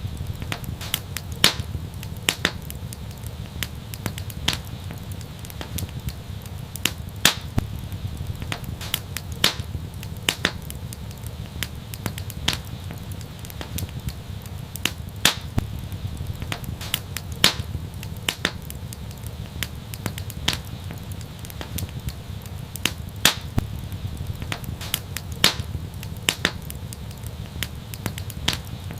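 Wood fire crackling: irregular sharp pops and snaps several times a second over a steady low rumble of the flames.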